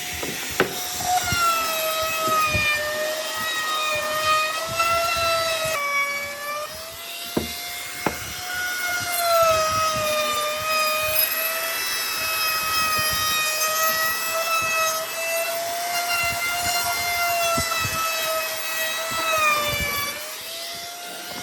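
A high-speed power tool running against wood, with a steady whine whose pitch sags and recovers as the tool is pressed into the work. A few sharp clicks are heard, and the tool stops near the end.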